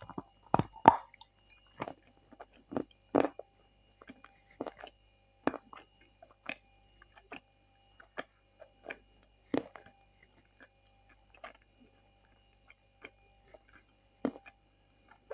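Close-miked chewing of Bashkir edible clay, a medium-firm clay that sticks in the mouth. Irregular wet clicks and crunches are loudest and closest together in the first few seconds, then sparser and softer.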